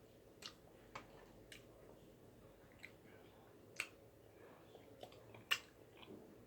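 Faint eating sounds: chewing, with about seven soft, sharp clicks spread through the quiet.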